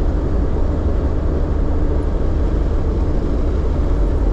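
A vehicle driving along, with a steady low engine rumble under constant road and tyre noise.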